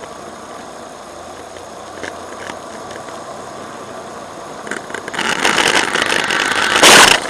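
Steady engine and road noise inside a moving car, with two faint ticks. About five seconds in, a loud rushing noise builds over two seconds, peaks in a very loud burst and then cuts off suddenly.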